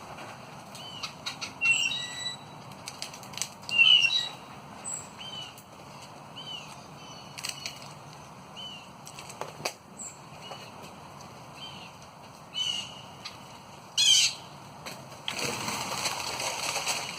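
Birds calling with short, repeated chirps every second or so, with wings flapping in a noisy flurry near the end.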